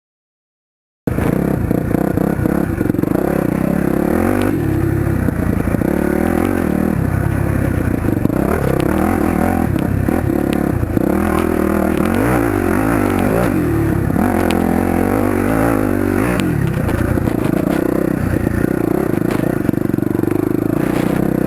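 1999 Yamaha YZ400F dirt bike's single-cylinder four-stroke engine running under way, its revs rising and falling again and again as it is ridden. The sound cuts in suddenly about a second in.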